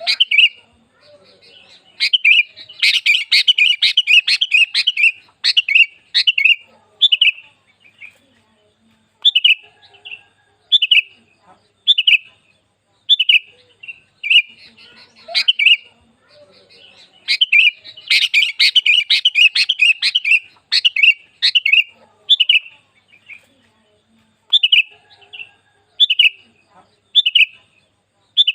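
Sooty-headed bulbul (kutilang) calling: short, bright notes about once a second, broken by two bouts of rapid, excited chattering, one about three seconds in and one about eighteen seconds in.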